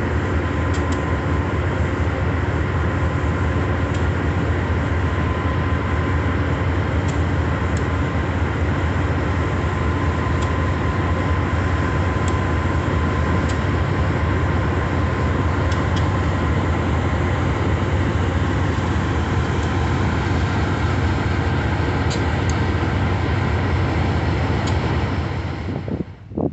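Train running past with a steady low rumble and a few short high clicks from the wheels and rails; the sound cuts off suddenly near the end.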